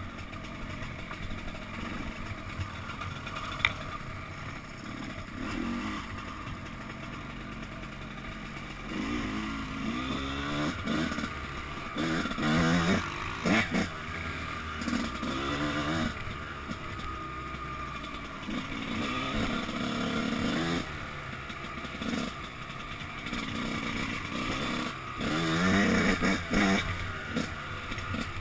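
Suzuki RM 125 two-stroke dirt bike engine running and revving up in repeated bursts, its pitch rising with each one. The loudest bursts come about halfway through and again near the end, with lower running in between. There is a single sharp click about four seconds in.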